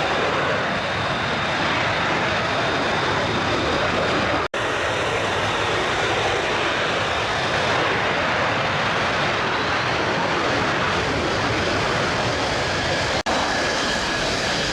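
Military jet engines running, a steady loud noise with a high whine over it. The sound cuts out briefly twice.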